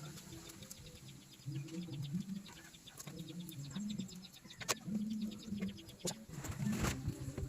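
Pigeons or doves cooing, in short low repeated phrases. Light clicks run through it, with one sharp click in the middle and a brief scraping noise near the end.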